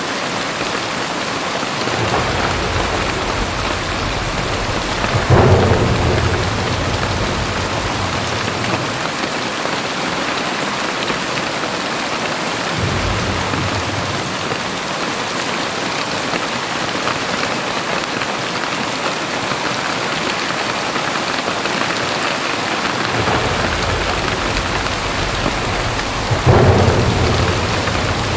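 Very heavy rain falling in a steady, dense hiss, with deep low rumbles rising and fading, loudest about five seconds in and again near the end.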